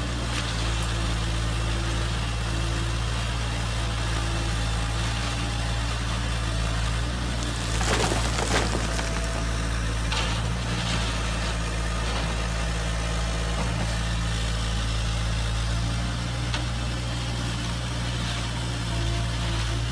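Radio-controlled construction models running with a steady low motor hum, with a brief noisy burst about eight seconds in.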